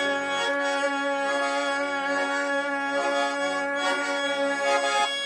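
Accordion playing the instrumental close of a Russian folk song: held chords over a pulsing bass line.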